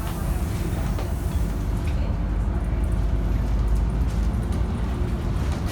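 Scania N230UD double-decker bus's diesel engine running, heard from on board as a steady low drone, with a few faint rattles and ticks.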